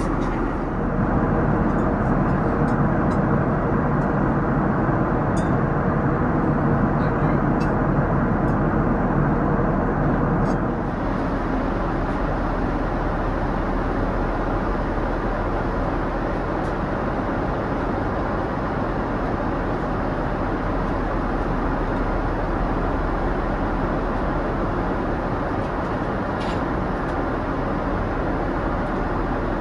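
Steady cabin noise of a Boeing 787-9 airliner in flight, a constant rush of airflow and engine noise heard from inside the cabin. The noise changes abruptly in tone and level about a third of the way in, and there are a few faint clicks.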